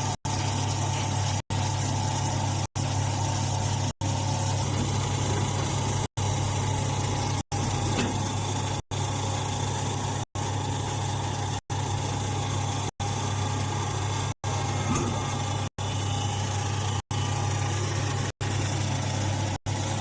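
Press hay baler machine running steadily, a constant low hum with a steady whine over it. The sound cuts out for an instant at regular intervals, roughly every second and a quarter.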